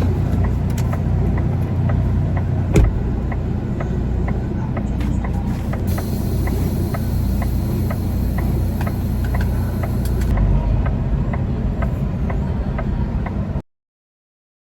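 Semi-truck diesel engine running, heard as a steady low rumble with a regular click about twice a second. There is a single knock about three seconds in and a high hiss for about four seconds in the middle, and the sound cuts off suddenly near the end.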